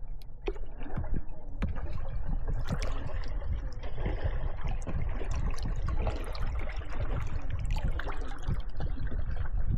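Water splashing and lapping around kayaks, with scattered sharp clicks and knocks of paddles and hulls over a steady low rumble.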